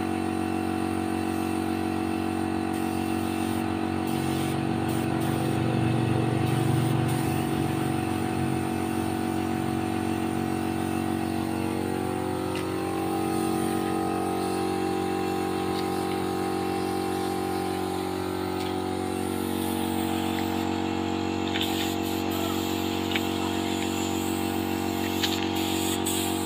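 A motor running steadily, a hum made of several fixed tones, with its pitch dipping and recovering in the middle.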